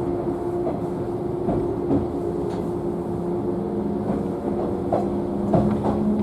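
JNR 113 series electric train heard from inside a motor car while running between stations: a steady hum from the traction motors and gears over rumbling running noise, with the wheels clacking over rail joints a few times.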